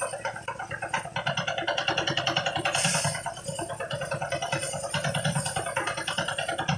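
Motorized rice thresher running, its engine and threshing drum making a fast, regular pulsing clatter with occasional hissy surges.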